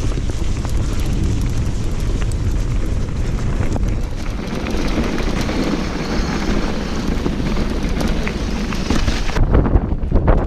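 Wind buffeting an action camera's microphone while a mountain bike rides a trail at speed, with a steady tyre rumble and many small clicks and rattles from the bike. Near the end the hiss thins and a few sharper knocks stand out.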